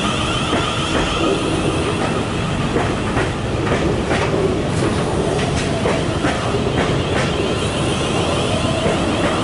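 Freight train passing close by, its wheels clattering over rail joints in irregular clicks over steady rolling noise.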